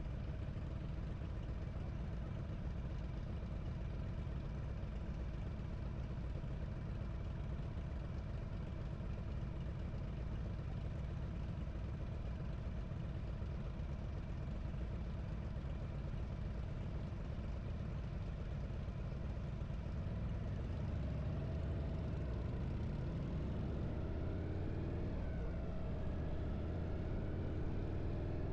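Harley-Davidson V-twin motorcycle engine running steadily on the road. About two-thirds of the way in its pitch rises and bends a couple of times as it accelerates.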